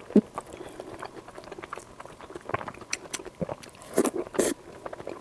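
Close-miked eating: wet chewing and mouth clicks, with two louder bites or smacks about four seconds in.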